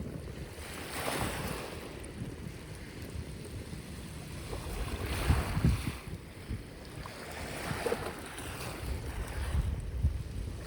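Ocean waves washing onto the shore, several swells rising and falling a few seconds apart, with wind rumbling on the microphone.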